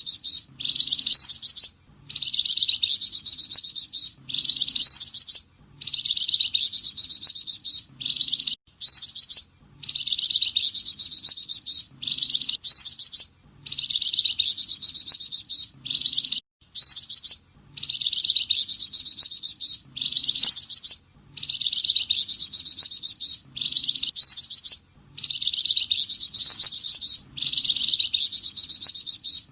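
A songbird known in Indonesia as 'Flamboyan' sings its 'tembakan' burst song. It repeats rapid, high-pitched trilled phrases of about a second and a half each, with short pauses between them, in a very regular rhythm.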